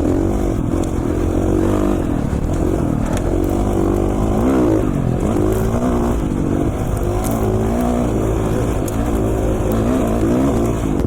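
450cc four-stroke dirt bike engine running under way, its pitch rising and falling again and again as the throttle is rolled on and off.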